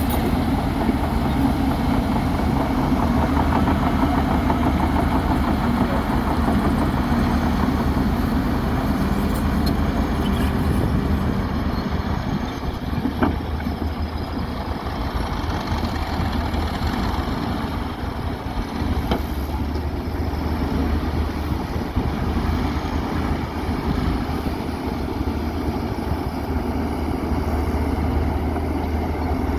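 Heavy earthmoving machine's diesel engine running steadily, with a brief knock about 13 seconds in.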